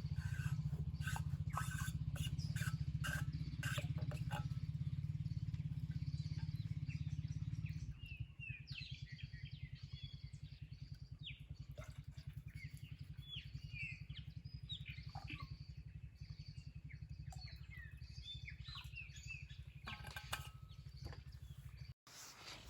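Small birds chirping in short, repeated calls over a steady low rumble, which drops noticeably in level about eight seconds in.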